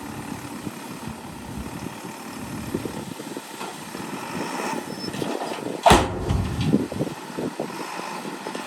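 Diesel engines of earthmoving machinery running, with scattered clanks and knocks. One loud bang about six seconds in.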